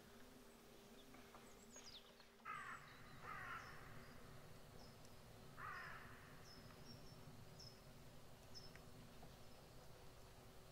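Faint bird calls: three short hoarse calls, two close together a few seconds in and one more a couple of seconds later, and a run of tiny high chirps after them, over a faint steady low hum.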